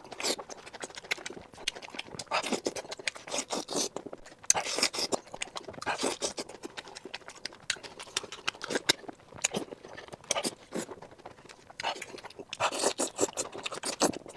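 Crunchy food being bitten and chewed close to the microphone: dense crackling in irregular bursts, loudest near the end.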